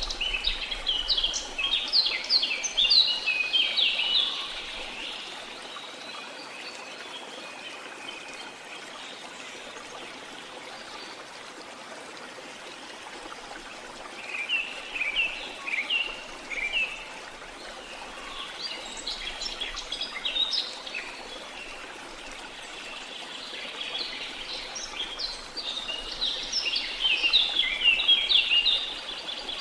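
Birds chirping in quick bouts over steady running water: a flurry in the first few seconds, more around the middle, and a busy chorus near the end.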